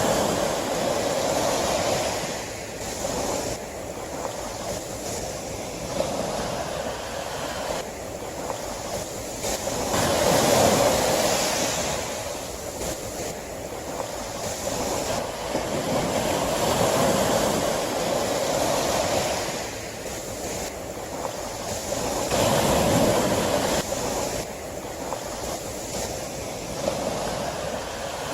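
Sea waves breaking on a shore, the surf swelling and easing every few seconds.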